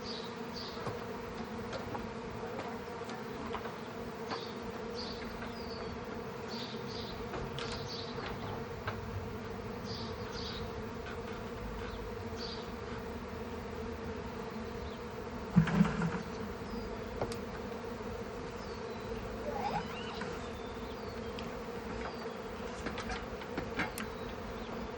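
Honeybee swarm buzzing in a steady, even hum as the bees gather at the hive box and fan to spread their scent, signalling the colony has found a home. Short high chirps come and go, and there is one brief louder knock about two-thirds of the way through.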